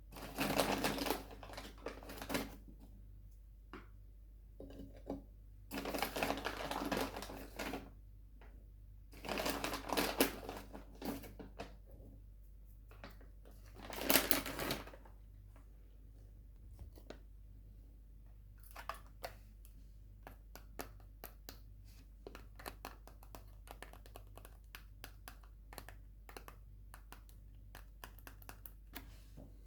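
Sweet wrappers being crinkled in four short bursts, then a long run of quick light clicks and ticks.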